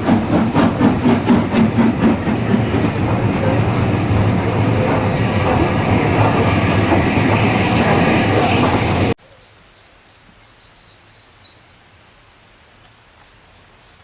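A steam train running past, at first with a quick regular beat of about three or four pulses a second that smooths into a steady rumble. It cuts off suddenly about nine seconds in, leaving quiet in which small birds chirp in short runs.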